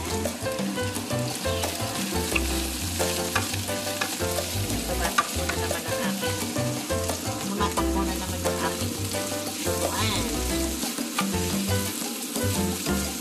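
Shredded boiled bamboo shoots and meat sizzling in a non-stick frying pan and being stirred with a wooden spatula, with scattered scraping clicks. Background music plays underneath.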